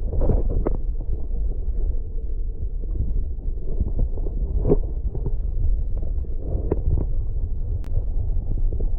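Steady, muffled low rumble on the camera's microphone, with a few short soft knocks: one just after the start, one a little before the middle and a couple late on.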